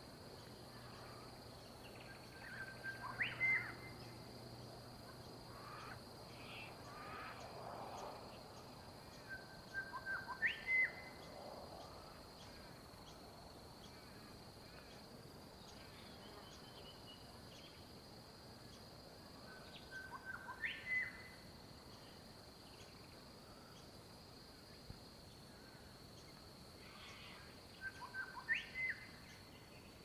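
A bird calls four times, about every eight seconds; each call is a short cluster of notes with a quick upward sweep. Beneath it runs a steady high insect trill.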